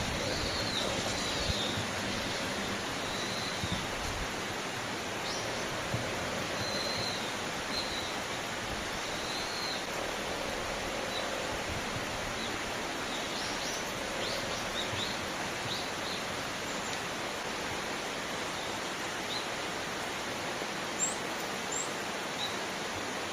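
A steady, even rushing noise with small birds chirping briefly now and then, most often in the first fifteen seconds, plus two higher chirps near the end.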